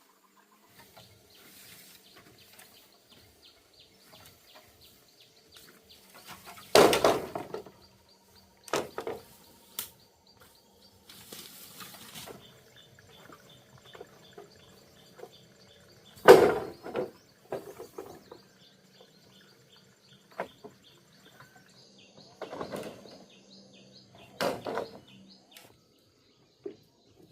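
A few loud, single knocks or thuds several seconds apart, with softer scraping and rustling between them, over faint steady high tones.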